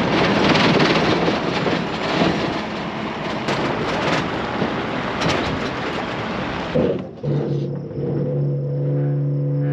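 A loud, even rushing rumble for about seven seconds that cuts off abruptly, followed by a steady engine hum from a machine running at an even speed.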